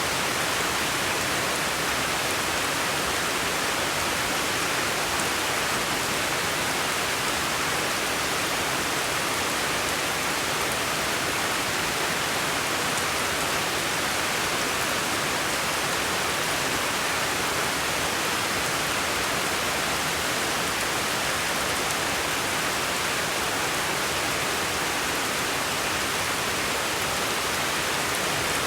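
Steady, unchanging rushing hiss with no separate drops, clicks or breaks, strongest in the upper-middle range.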